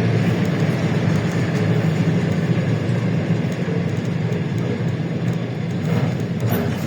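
LiAZ-677M city bus on the move, heard from inside the cabin: a steady low drone from its V8 petrol engine, mixed with road and body rumble.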